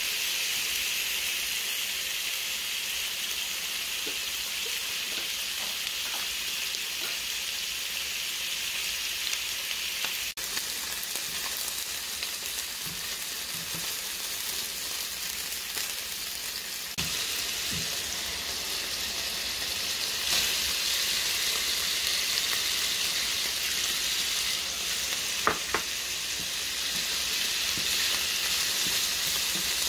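Chicken pieces frying in oil in a nonstick frying pan: a steady sizzle with spattering oil, with a few light taps as a silicone spatula stirs the pieces.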